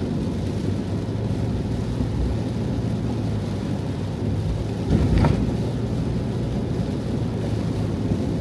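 Heavy typhoon rain drumming steadily on the roof of a Hiace van, heard from inside the van, with a brief louder thump about five seconds in.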